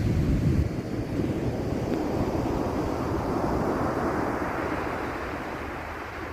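Ocean surf on a beach: a wave breaks and washes in, swelling in the middle and slowly fading near the end. Wind buffets the microphone with a low rumble in the first second.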